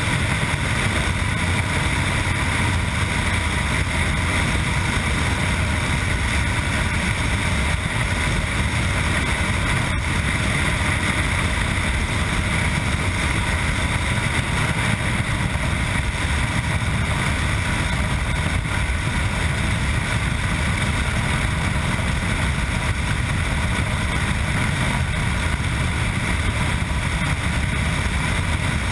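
Yamaha MT-09's three-cylinder engine running through an Akrapovic exhaust at a fairly steady pace while riding, mixed with wind rush over the helmet-mounted microphone.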